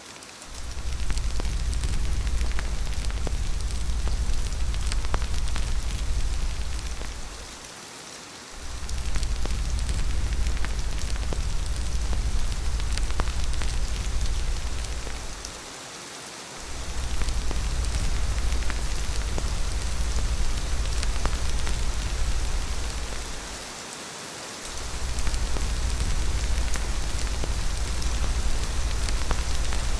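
Steady rain with fine pattering drops, over a deep low rumble that fades out and back in about every eight seconds.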